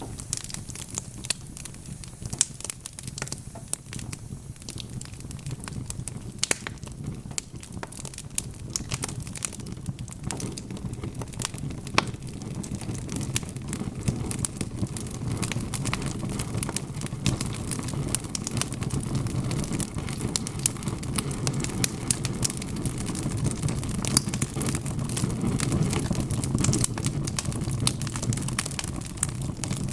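Wood fire burning in a fireplace: many small sharp crackles and pops from the logs over a low steady sound of the flames, which grows louder in the second half.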